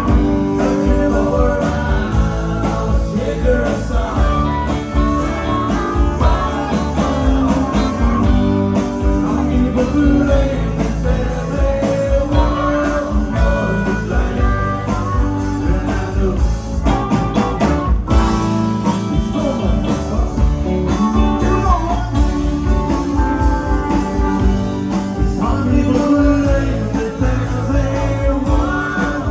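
Live band playing a country-rock song with guitar, bass and drums, a steady beat throughout.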